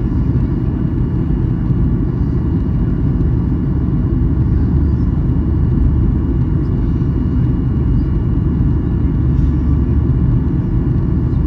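Steady low cabin roar of a Boeing 737-800 on approach, heard from a seat behind the wing: its CFM56-7B engines and the airflow over the fuselage, with faint steady engine tones above the rumble.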